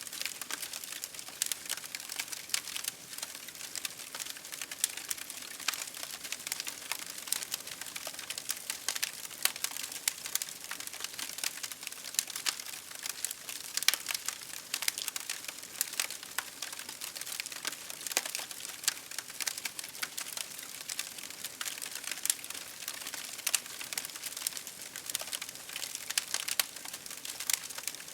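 Campfire crackling: burning wood snapping and popping in many quick irregular clicks over a steady hiss.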